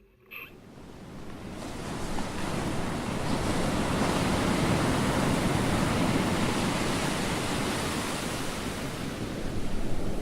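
Steady rush of wind and sea water with no tones or beat, fading in over the first couple of seconds.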